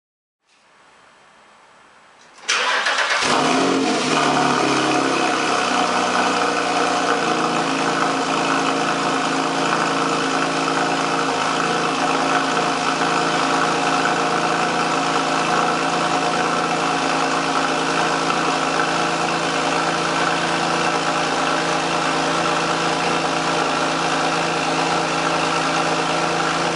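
2009 Porsche 911 Carrera S's 3.8-litre flat-six, breathing through a Tubi aftermarket exhaust, cold-started: a faint starter crank for about two seconds, then it catches with a loud flare of revs that settles within a couple of seconds into a steady cold fast idle.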